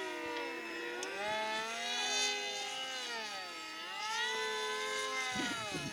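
Several radio-controlled model airplanes flying at once, the whine of their motors and propellers overlapping and gliding up and down in pitch as each plane passes and changes throttle.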